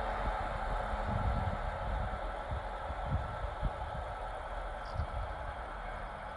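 A train running away down the line, its rolling rumble fading slowly, with irregular low thumps of wind buffeting the microphone.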